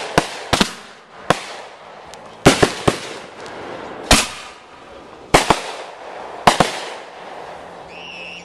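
Consumer firework cake going off: about a dozen sharp bangs at irregular spacing over roughly seven seconds, with a crackling hiss between them. A brief high steady tone sounds near the end.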